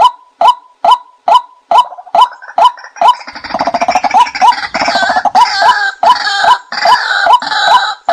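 Bird calls played as a hunting lure: a steady series of short pitched notes about two and a half a second, joined from about three seconds in by a louder, denser run of overlapping calls.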